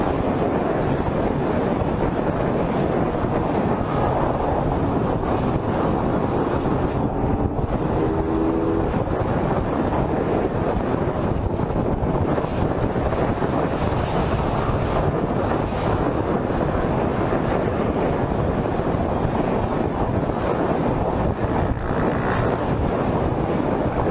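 Steady rush of wind and vehicle noise from a motorcycle moving at speed, with a short tonal sound about eight seconds in.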